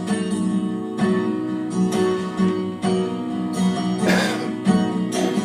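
Instrumental break in a song: acoustic guitar strumming chords steadily, with no vocals.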